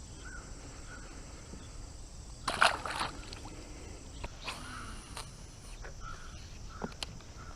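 Quiet pond ambience with a few faint clicks and knocks, the loudest a short cluster about two and a half to three seconds in, and light water sloshing.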